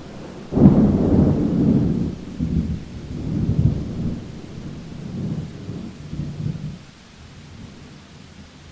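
Thunder: a sudden loud clap about half a second in, then a low rolling rumble that swells several times and dies away near the end, over steady rain.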